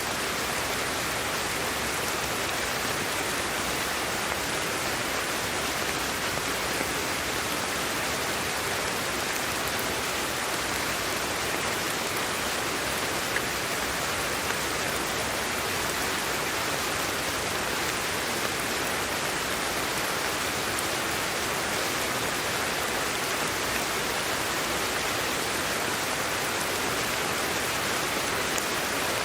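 Steady, even hiss of white noise for sleep, unchanging throughout.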